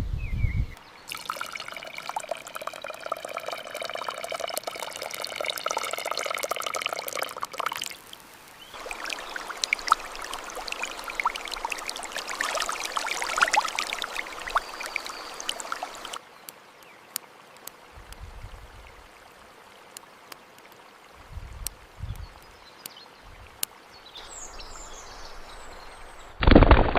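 Liquid pouring and trickling, then quieter handling noises with scattered clicks and a few soft thumps near the end.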